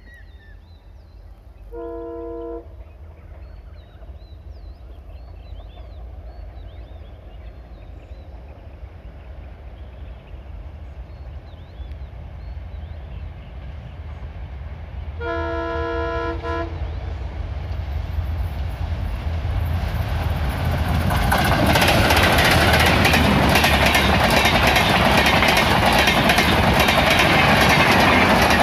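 Twin WDM3D diesel locomotives hauling an express approach, sounding the multi-tone horn twice: a short blast about two seconds in and a longer one around the middle. The engines and wheels then grow steadily louder and are loud and rushing from about two-thirds of the way through, as the locomotives and coaches pass close by.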